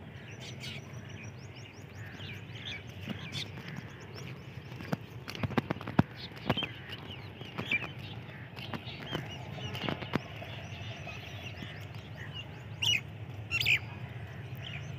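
Birds chirping and calling in quick scattered notes, with a few louder sharp calls late on, over a steady low rumble.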